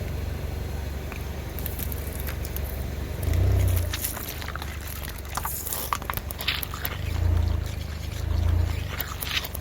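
Car engine running with a steady low hum that swells louder three times, under scattered crackles and snaps from something being crushed under the tyre.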